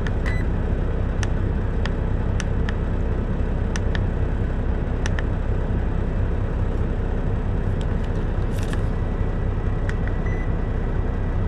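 Steady low rumble of an idling semi truck, with a few faint light clicks.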